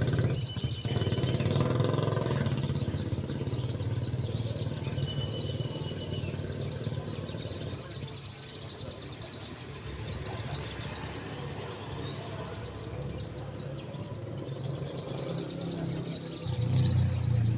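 Several caged sogon (little spiderhunters) chirping together in fast, high trills, over a steady low rumble that grows louder near the end.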